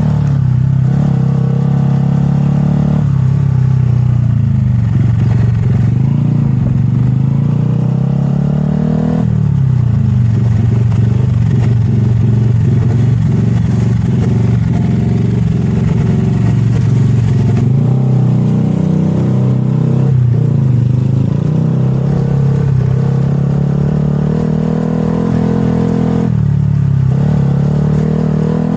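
Motorcycle engine running and revving, its pitch shifting up and down several times as the throttle changes.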